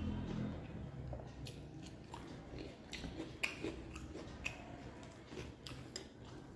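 Close-up chewing of a mouthful of rice and dal, with scattered short wet clicks and smacks. Fingers squish and mix rice on the plate.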